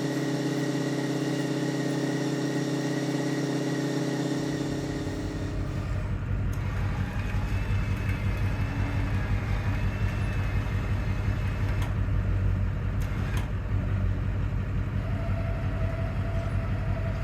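Electric drive of a homemade pickup-bed roll-off lift running, fed through jumper cables, with a steady hum of even tones. About four seconds in, a deeper, pulsing rumble takes over and runs on.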